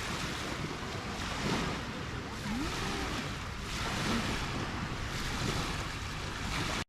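Surf washing onto a beach as a steady rush, with wind buffeting the microphone; the sound cuts off abruptly at the very end.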